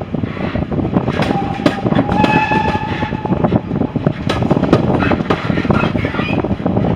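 Heritage railway train running: a dense clatter and rattle of wheels and rolling stock on the rails. A faint, steady high tone sounds over it for a couple of seconds starting about a second in.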